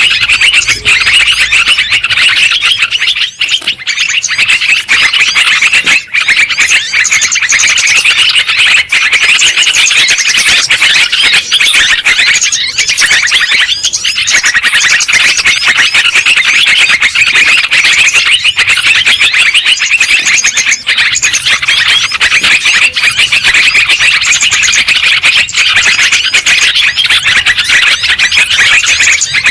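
A flock of yellow-vented bulbuls (trucukan) chattering noisily, many calls overlapping in a continuous loud din.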